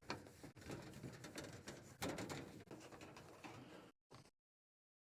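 Rag rubbing and wiping a camper compartment door with lacquer thinner: irregular scrubbing and light knocks. The sound cuts off abruptly about four seconds in.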